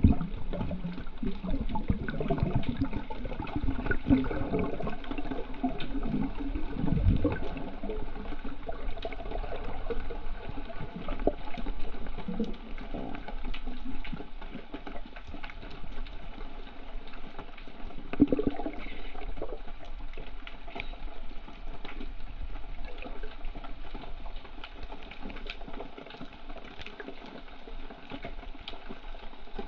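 Seawater sloshing and gurgling close to the microphone, swelling and easing irregularly, with many small splashes and ticks.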